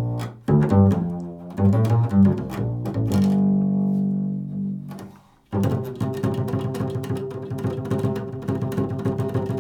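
Improvised music on a low-pitched string instrument: separate low notes and one long held note, a brief break about halfway through, then fast repeated strokes over steady pitches.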